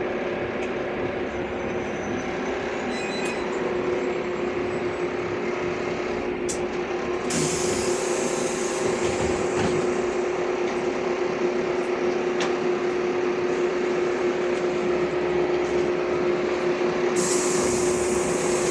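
Inside a LiAZ 5292.65 city bus while it drives: steady engine and drivetrain noise with a constant humming tone. Two short hisses of air come about seven seconds in and again near the end, as the bus nears its stop.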